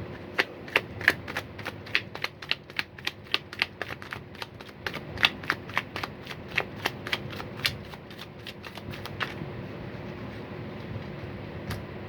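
A tarot deck being shuffled by hand: a quick, rhythmic run of card clicks, about three a second, that stops about nine seconds in.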